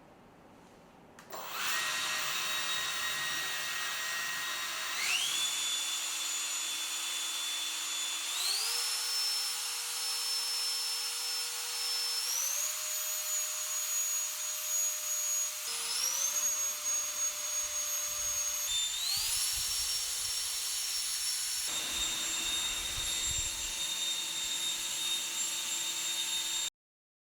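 Nichido Kogyo 突風GUN electric blower (air duster) running with a high motor whine and rushing air; the whine steps up in pitch several times as the speed setting is raised, drops back to a lower speed twice, and cuts off suddenly near the end.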